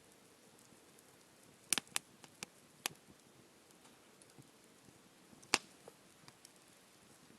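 Firewood burning in a campfire, crackling with scattered sharp pops: a quick cluster about two seconds in and one loudest pop past halfway, over a faint steady hiss.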